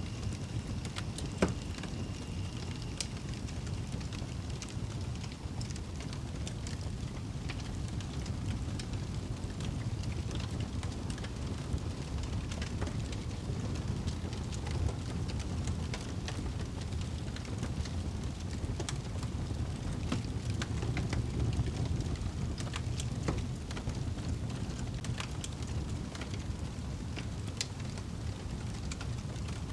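Wood fire crackling in a fireplace: a steady low rumble with scattered sharp pops and snaps, one louder pop about a second and a half in.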